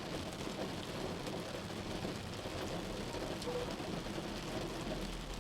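Rain hitting a moving car over steady road noise, heard from inside the car.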